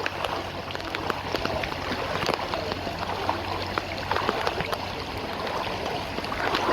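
Rain falling with running water, many small drips and splashes pattering throughout.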